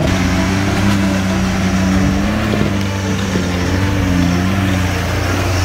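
Off-road 4x4 vehicle's engine running steadily, its pitch drifting up and down a little.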